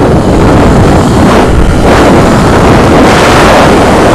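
Heavy wind buffeting on a helmet-mounted external microphone on a moving motorcycle: a loud, dense rush of air that swells a few times and buries any engine sound.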